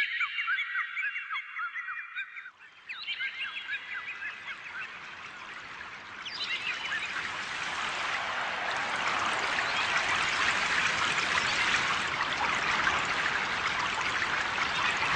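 Birds chirping and calling in quick, high-pitched bursts. After about three seconds they give way to running water, which grows into a steady rush from about six seconds in.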